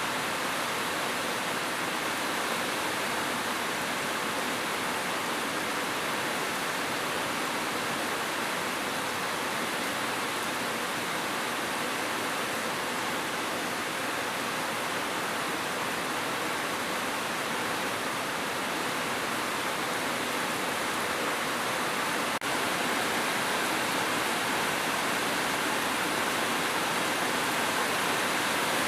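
Steady rain: a continuous, even hiss of falling rain with no break or change.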